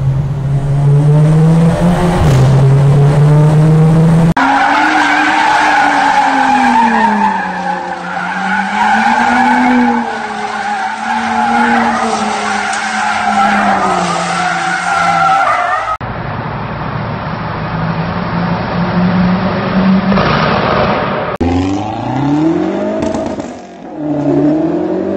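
A string of car clips cut together. Engines held at nearly steady revs, then a long stretch of engine pitch swinging up and down over high squealing tones, like a car sliding with its tyres squealing. Near the end, engines rev with rising pitch.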